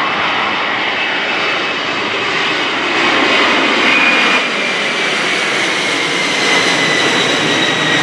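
Jet engines of a C-5M Super Galaxy, four General Electric CF6-80C2 (F138) turbofans, running loudly. A high fan whine sits on top and slowly drops in pitch through the second half.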